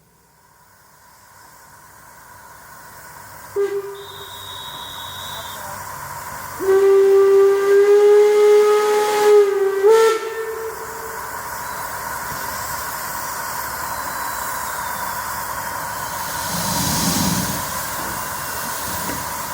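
Steam locomotive whistle: a brief toot, then a long blast of about three and a half seconds that steps up slightly in pitch at its end. A short, shrill, higher whistle sounds just before the long blast, and a steady hiss of steam follows it.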